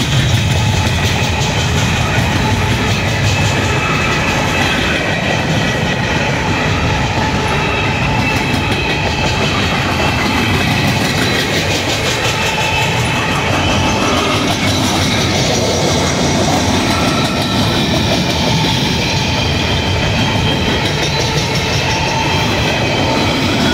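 Train of empty coal cars rolling steadily past, with a continuous rumble and clatter of steel wheels over the rail joints.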